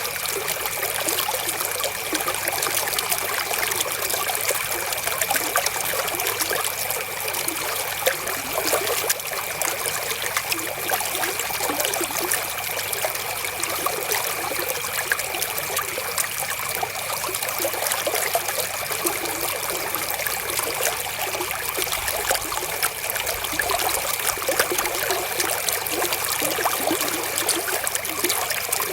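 River water flowing and trickling in a steady, unbroken stream with small splashes.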